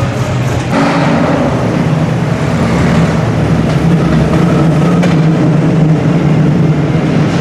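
Engines of classic British sports cars running at low, steady revs as they roll slowly through a concrete parking garage. The sound gets louder about a second in.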